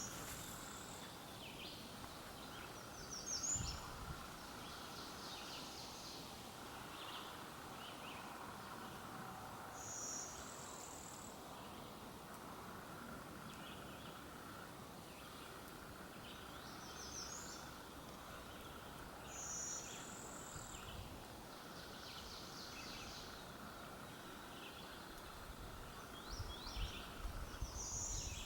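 Wild birds singing: short high chirping phrases repeated every few seconds over a faint steady background hiss. A few soft thumps come near the end.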